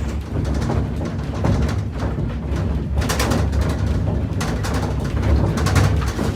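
Low rumbling from a building shaking in an earthquake, with loose objects rattling and clattering that grow busier about halfway through.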